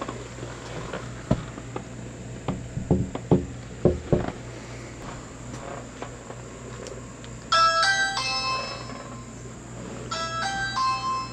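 An electronic door chime plays a three-note rising tune twice, a few seconds apart, after a handful of knocks and clunks.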